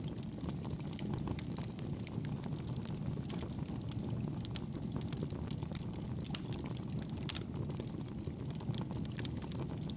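Wood fire burning in a fireplace: a steady low rumble of flame with frequent small crackles and pops throughout.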